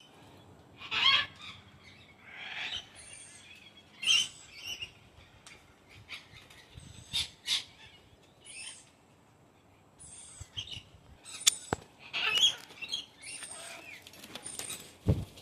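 Pet birds calling in short, separate squawks and chirps, a dozen or so scattered through, with one sharp click about eleven and a half seconds in.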